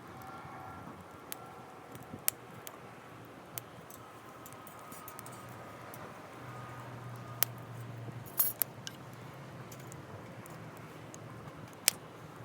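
Wood campfire crackling: scattered sharp pops and clicks at uneven intervals, a few of them ringing lightly, with a small cluster about eight seconds in.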